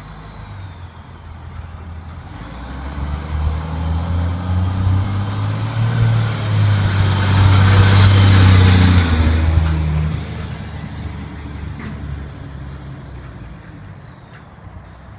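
Heavy diesel truck, likely the International 4700's DT466E, driving past. The engine grows louder to a peak about eight seconds in, then fades away, with a high whine rising and then falling as it passes.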